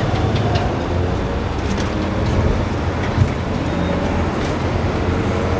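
Classic car engine and road noise heard from inside the cabin as the car pulls out and gets under way, a steady low rumble with the engine's pitch shifting gently. The engine has just had its ignition timing set by ear and is judged to run way better.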